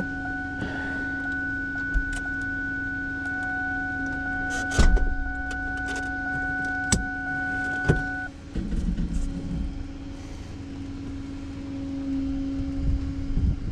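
A tow truck's machinery running with a steady mechanical whine. A higher whine stops about eight seconds in, leaving a rougher low rumble. There are a few sharp clanks and clicks, the loudest about five seconds in.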